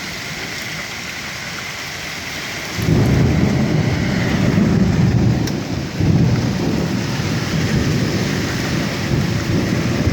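Strong wind with hail and rain: a steady hiss of falling precipitation, and about three seconds in a loud low rumble sets in and keeps on, dipping briefly around six seconds.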